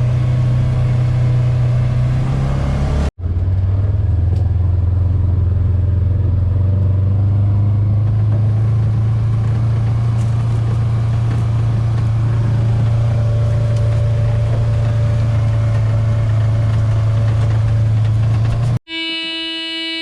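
A truck engine idling steadily, warming up after a start. About three seconds in there is a cut, and the hum changes pitch. Near the end it gives way to a sustained held tone.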